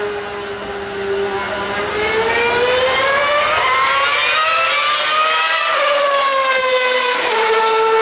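A 2013 Formula One car's 2.4-litre V8 running at high revs. Its high-pitched note holds steady, climbs gradually over about four seconds, drops back a little before the end, then holds steady again.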